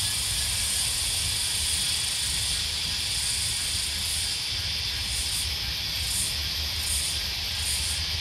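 Cicadas calling in a loud, steady shrill drone. From about three seconds in, a second high call joins that swells and fades about once every three-quarters of a second, over a low rumble.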